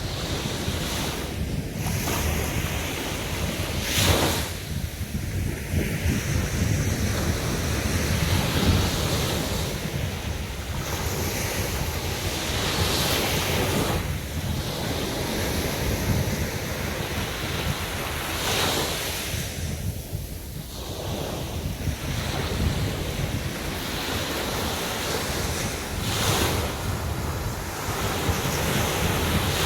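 Sea waves breaking and washing up a sandy beach, the surf swelling every few seconds over a continuous wash, with wind rumbling on the microphone.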